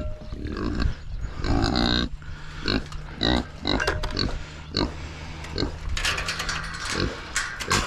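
Pigs grunting repeatedly in short, irregular calls as they crowd around at feeding time.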